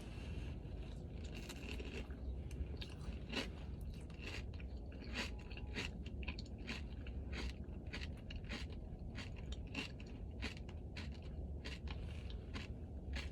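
Close-up chewing of Dubai-style chocolate filled with pistachio cream and crunchy kataifi pastry: a run of sharp crunches and mouth clicks, several a second, between softer chewing.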